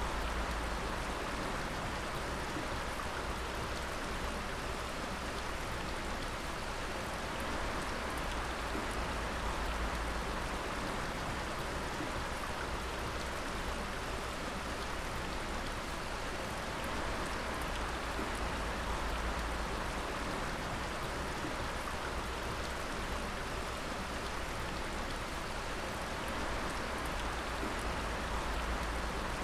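Water dripping: many drops falling steadily over a continuous rushing hiss, with a low rumble underneath.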